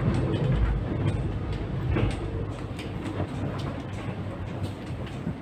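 X'Trapolis 100 electric train heard from inside the carriage while running along the track: a steady low rumble with scattered clicks from the wheels on the rails.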